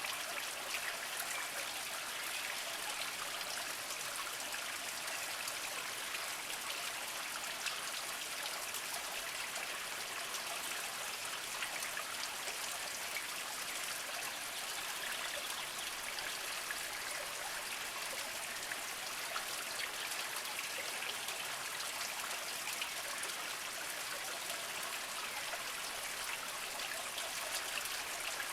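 Small mountain spring trickling and splashing over mossy rocks: a steady stream of water with many small drips and splashes.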